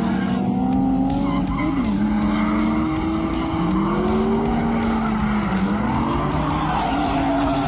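A drift car's engine revving up and down repeatedly while its tyres skid and squeal.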